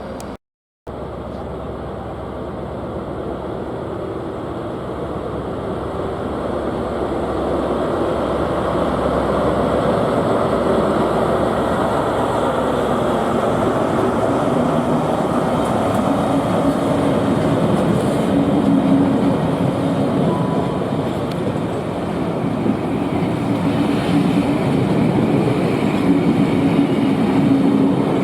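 A train running past on the main line, preceded by a brief gap at the cut. Its rumble builds over the first several seconds and then stays loud, with a steady engine hum coming through in the second half.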